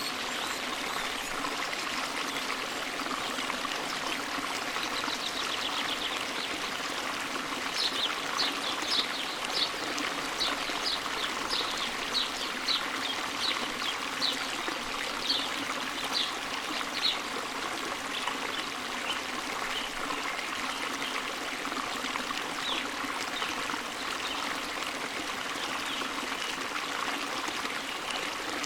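Forest stream running steadily over rocks. A bird calls a run of short, sharp high notes, about two a second, from about a third of the way in to past the middle.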